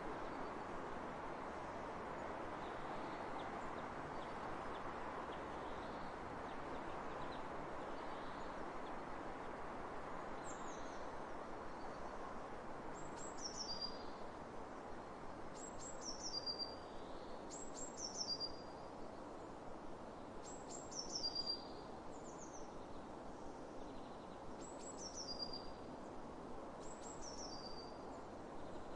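Steady wind over open fields, with a songbird repeating a short, high, falling phrase about every two to three seconds from about a third of the way in.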